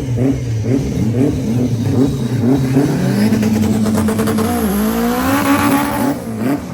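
Race car engine at a drag race, revved in quick repeated bursts, then held in one long hard acceleration whose pitch climbs, dips briefly and climbs again before falling away near the end.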